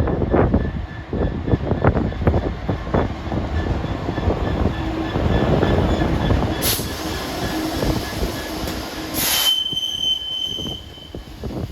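A train running past on the rails with a dense clatter of wheels over the track. Two short bursts of hissing noise come about halfway through, then a steady high wheel squeal near the end.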